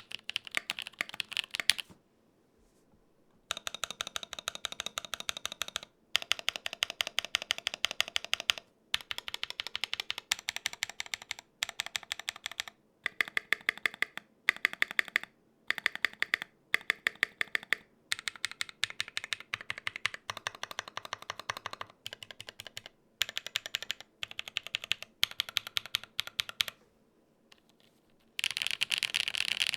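Typing on a Gok 7V custom 75% mechanical keyboard with lubed tactile switches: rapid runs of crisp keystrokes broken by short pauses.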